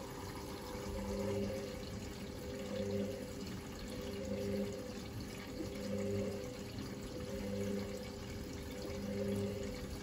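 Hoover VisionTech washing machine running a wash: water sloshing and running in the drum, with the drum motor's hum coming and going every second or two.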